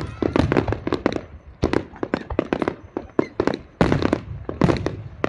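Fireworks exploding in quick, irregular succession: sharp bangs and cracks several times a second, each with a short echoing tail.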